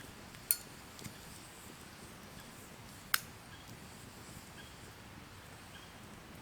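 A few sharp clicks or light knocks, like small objects handled at a campsite: two louder ones about half a second and three seconds in, a fainter one just after the first, over a faint steady hiss.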